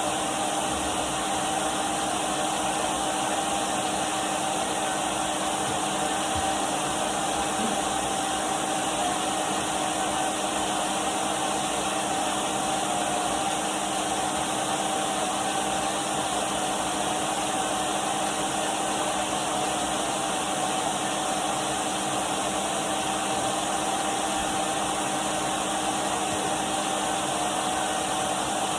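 Henry cylinder vacuum cleaner running steadily: an even rushing hiss of air with a constant motor whine.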